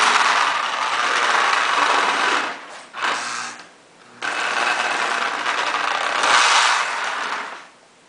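Lionel postwar O-gauge toy locomotive's electric motor and gears whirring as it runs on the track. It cuts out briefly twice, about two and a half and four seconds in, leaving a low hum, then stops near the end.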